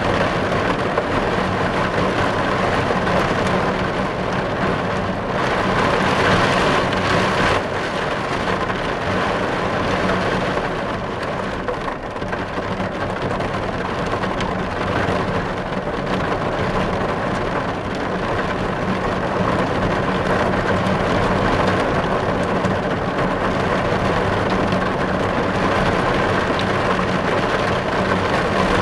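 Heavy rain falling on a car's windows, heard from inside the car: a dense, steady patter that swells briefly about six seconds in.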